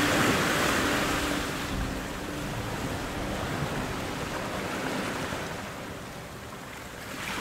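Ocean surf washing in, a steady rush of noise that swells and ebbs. Soft music fades out in the first second or two.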